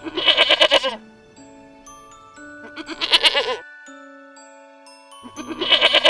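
Goat bleating three times, each bleat about a second long with a fast quaver, the calls a couple of seconds apart. Soft background music with long held notes plays underneath.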